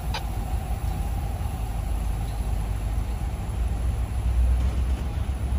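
Freight diesel locomotive's engine running, a steady low rumble that grows louder about four seconds in.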